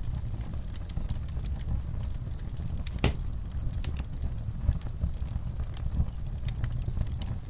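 Wood fire in a fireplace crackling: irregular small pops over a steady low rumble, with one sharper pop about three seconds in.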